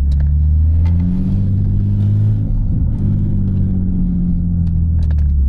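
Single-turbo BMW G80 M3's straight-six engine pulling as the car drives, a low drone whose pitch climbs over the first two seconds, breaks briefly in the middle, then holds and eases off slightly.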